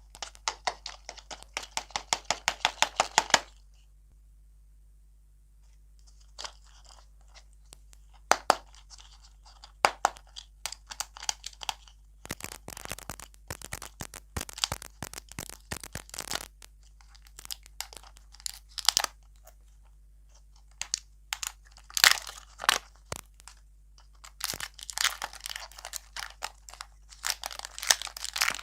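Close-miked crisp crunching and crackling, coming in bursts of quick sharp clicks that stop and start again.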